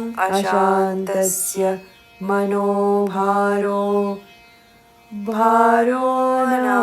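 A single voice chanting Sanskrit verses in a slow, melodic recitation, holding long notes. It breaks off briefly twice, about two seconds in and again just past four seconds.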